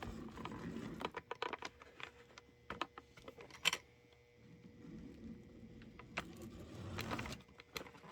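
Irregular small clicks and taps of a metal HO scale model locomotive being handled, its parts and a clip worked by hand, with one sharper click about three and a half seconds in.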